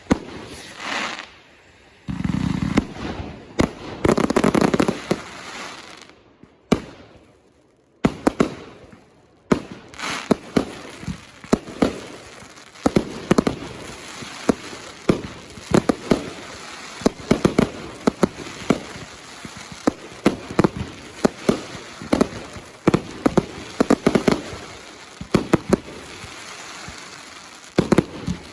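Consumer fireworks going off: a few heavy bursts in the first seconds, then, from about eight seconds in, a long fast run of sharp bangs, several a second.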